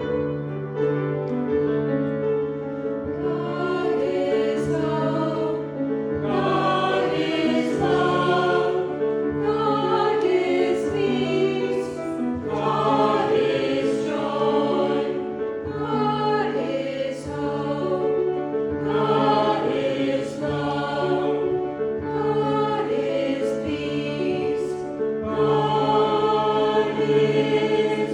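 A choir singing a hymn with accompaniment, in phrases of a few seconds each.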